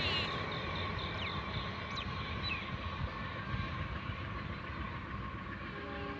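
Passenger train rolling through the station and moving away: a steady rumble of wheels and coaches, easing off slowly.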